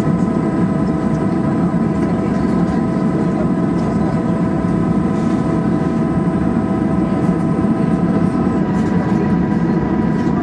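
Cabin sound of a Boeing 737-800 with its CFM56-7B jet engines turning steadily, most likely at idle while taxiing: a steady rumble under a steady multi-tone engine whine, with a few faint knocks.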